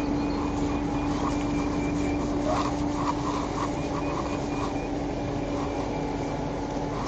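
Steady road and engine noise inside a moving car, with a constant low hum running underneath.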